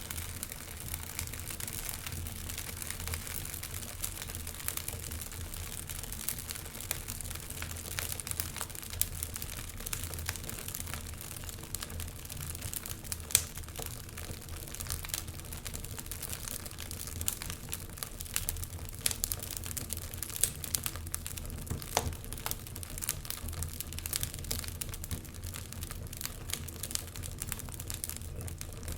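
Wood fire in a fireplace crackling and popping irregularly over a low, steady rumble, with one louder pop about halfway through.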